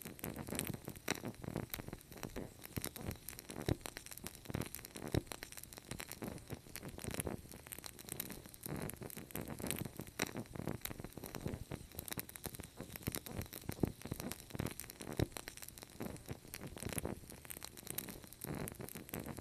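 Wood fire crackling in a fireplace: a dense, irregular stream of snaps and pops over a low rumble of the flames.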